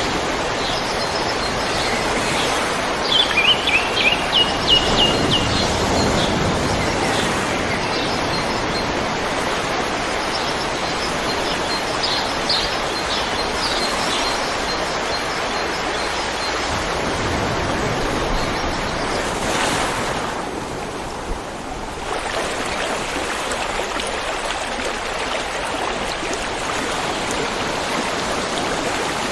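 River water rushing steadily. A small bird sings a quick run of repeated high chirps a few seconds in, and chirps faintly again about twelve seconds in; the water sound dips briefly about twenty seconds in.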